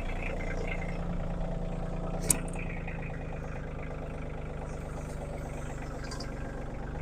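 Engine of a land-clearing vehicle running steadily at an even speed, with one sharp knock about two seconds in.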